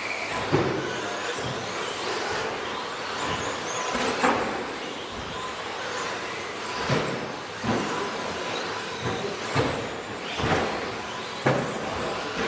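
A pack of 1/10-scale 2WD electric RC trucks with 13.5-turn brushless motors racing round a track: motor whine and tyre noise, broken by scattered sharp clacks as the trucks land or hit each other.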